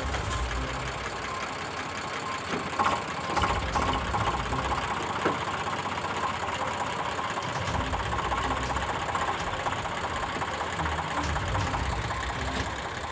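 Vehicle engine idling steadily, with a few sharp knocks about three to five seconds in.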